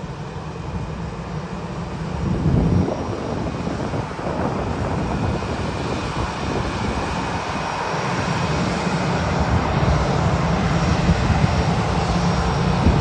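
Jet airliner engines running: a steady low rumble with a faint high whine, growing gradually louder.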